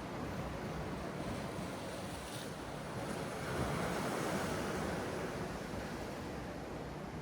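Sea waves surging and washing onto the shore, one wave swelling louder just past the middle, with wind.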